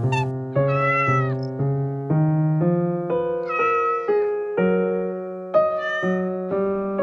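A cat meowing three times, each call rising then falling in pitch, over piano background music.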